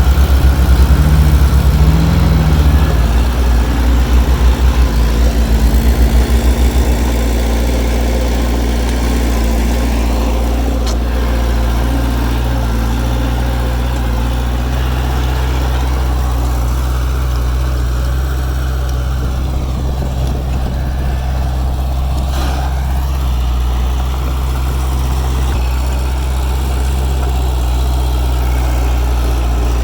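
Heavy diesel engine of earthmoving machinery, loud and pulsing for about the first seven seconds, then settling into a steady, quieter low idle.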